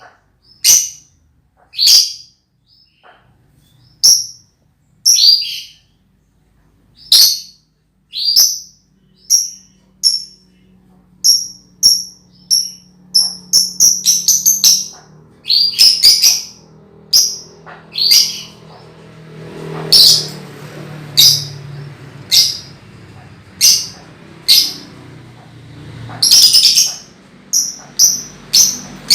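Young lovebird giving short, shrill chirps, spaced about a second apart at first and then in quicker runs. It is a juvenile practising the long chattering trill ('ngekek') that lovebird keepers train for.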